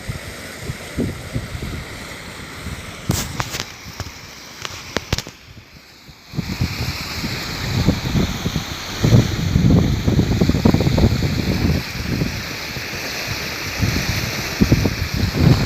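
Wind buffeting the microphone in irregular gusts over a steady outdoor hiss, with a few sharp clicks a few seconds in. The sound drops briefly about six seconds in, then the gusts come thicker.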